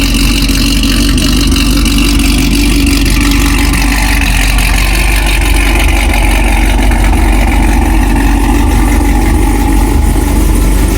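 Loud car engine running steadily, with slow shifts in pitch.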